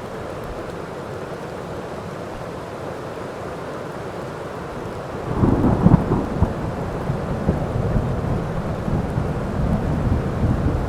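Steady rain falling, then about halfway through a thunderclap breaks in and rolls on as an uneven low rumble over the rain.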